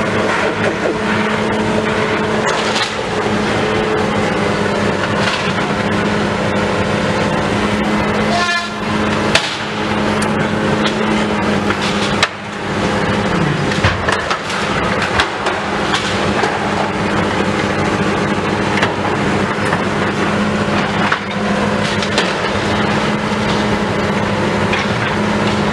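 Heavy demolition machine running steadily while a building is broken up, with repeated cracking, crunching and clattering of breaking debris.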